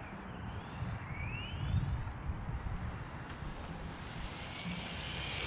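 Electric RC car's motor whining as it accelerates, its pitch climbing steadily for several seconds over a low background rumble.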